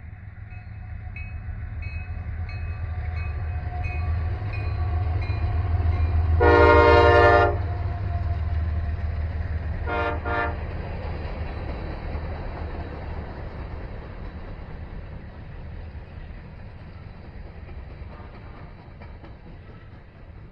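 Freight train led by CSX diesel locomotives passing, its low engine rumble building and then fading. The locomotive horn sounds one long blast about a third of the way in and a quick double toot about halfway through.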